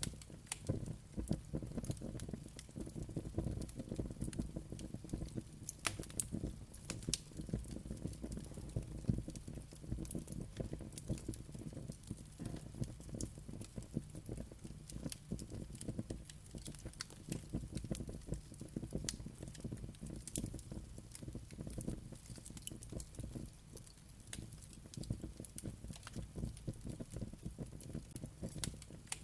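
Wood fire crackling steadily, with irregular sharp pops and snaps over a low rumble of the flames.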